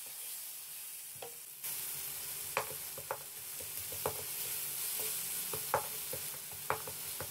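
Onion-tomato masala sizzling as it fries in a nonstick wok, with a splash of water just added, while a wooden spatula stirs it. The sizzle grows louder about a second and a half in, and the spatula knocks against the pan in light, irregular taps.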